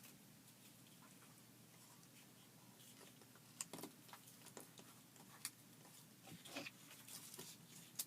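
Near silence with a few faint, scattered taps and clicks of small craft items being handled on a tabletop.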